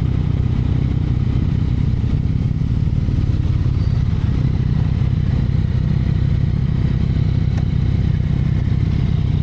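Yamaha XSR900 motorcycle's three-cylinder engine running at a steady, even pitch while riding, heard from on the bike.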